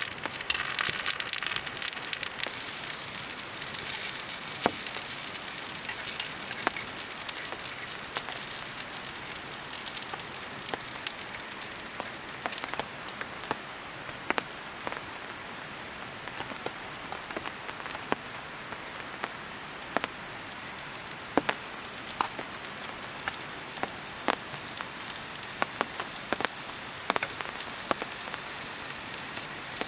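Food sizzling in a hot pan over a campfire: a steady hiss with frequent sharp pops and crackles of spattering fat.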